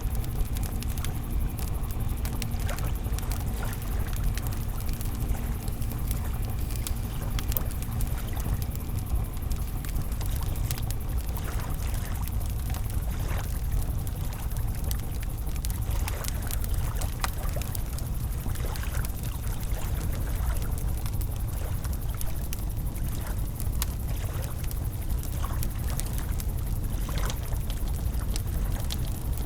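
Campfire crackling, with scattered sharp pops over a steady low rumble from the river. A faint steady hum fades out about a third of the way through.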